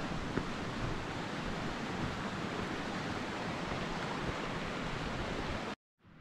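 Steady rushing noise that cuts off abruptly near the end.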